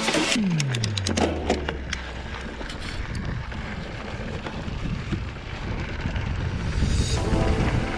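Wind rushing on the microphone with trail noise from a mountain bike on the move. A deep tone slides down in pitch in the first second, and music comes back in near the end.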